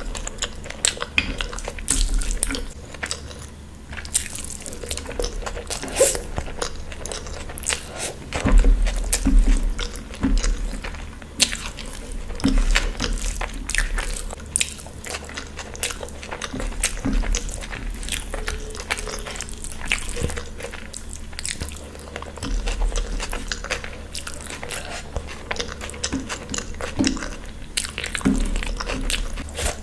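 A person chewing and biting food, with irregular crunchy bites and clicks from the mouth throughout.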